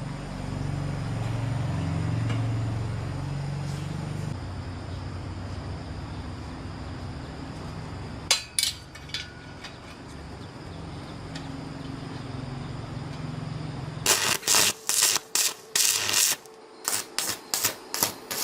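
A low steady hum, then scattered sharp knocks, and a rapid, irregular run of about a dozen loud sharp strikes in the last few seconds.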